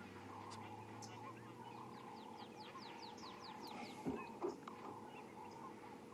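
A bird calling a quick run of about ten short, high, falling notes over faint bush ambience. A low hum fades out about two seconds in, and a couple of soft knocks follow near the end.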